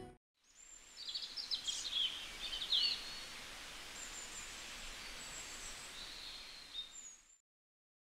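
Birds chirping over a steady outdoor hiss, with quick high chirps busiest in the first three seconds and thinner high calls after; the sound cuts off abruptly about seven seconds in.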